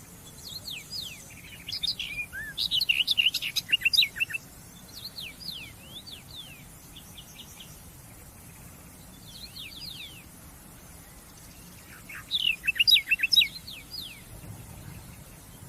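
Small birds chirping: quick, high, downward-sweeping chirps, in two busy, loud bursts about two seconds in and about twelve seconds in, with sparser chirps between.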